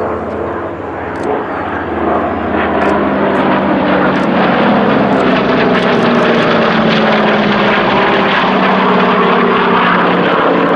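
Piston engines of a propeller aircraft flying past in a loud, steady drone that builds over the first few seconds and holds, then cuts off suddenly at the end.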